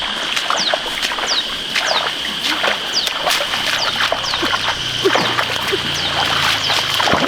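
Irregular splashing and sloshing in shallow muddy pond water as fish are caught by hand. Behind it runs a steady high tone, with short falling chirps repeating throughout.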